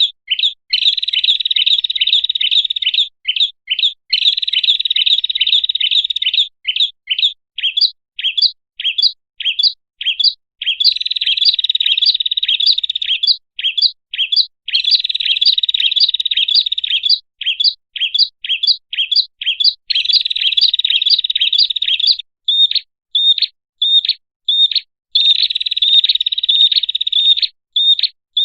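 Prinia (prenjak) calling: loud, high-pitched sharp chirps in fast continuous runs of one to three seconds, alternating with stretches of separate chirps several per second. It is a lure call recording for drawing in prenjak.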